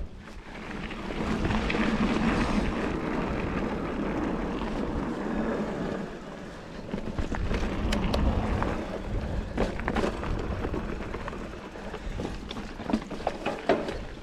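Mountain bike riding down a dirt trail: a steady rush of wind and rolling tyres, with sharp clicks and rattles of the bike over the ground from about eight seconds in.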